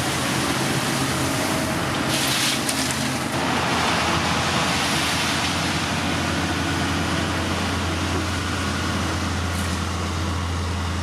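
Heavy diesel construction machinery running steadily, its low engine drone growing stronger about four seconds in, with a brief hiss about two seconds in.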